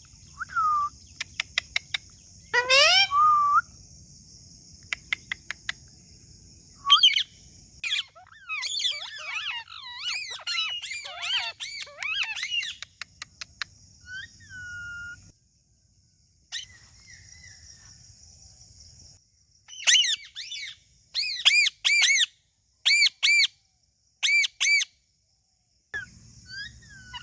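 A parrot making natural calls: rapid clicks, a rising whistle, a stretch of busy chattering and a few whistled notes. From about 20 seconds in come five or so loud, sharp screeching calls in quick succession. A steady high hiss lies beneath much of it.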